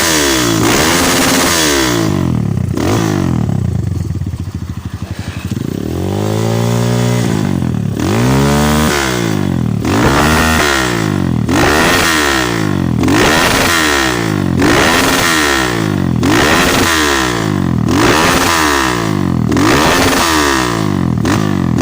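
Motorcycle exhaust as the engine is revved. It settles to a low idle about four to six seconds in, then the throttle is blipped again and again, roughly one rev a second.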